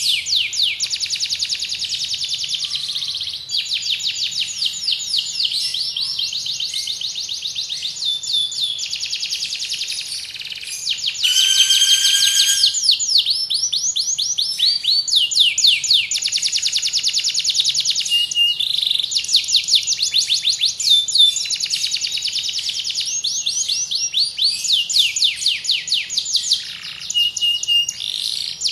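Domestic canary singing a long, nearly unbroken song of fast trilled rolls, each a rapid run of repeated notes, changing from one roll to the next every few seconds. A louder, ringing phrase stands out about eleven seconds in.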